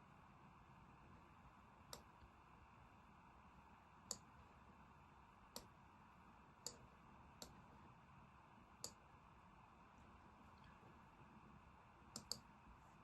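Faint computer mouse clicks, about eight scattered single clicks with a quick double click near the end, over a low steady background hiss.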